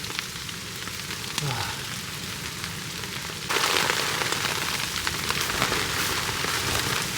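Rain and small hail pellets falling steadily, thick with small sharp ticks, then suddenly growing much heavier about three and a half seconds in: a sudden downpour.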